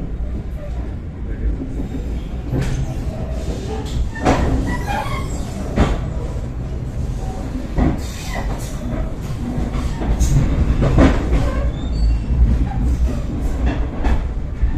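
Steady low rumble of a passenger train coach heard from inside, as the train runs over station trackwork. Sharp knocks come every couple of seconds as the wheels cross rail joints and switches, with a brief wheel squeal about four or five seconds in.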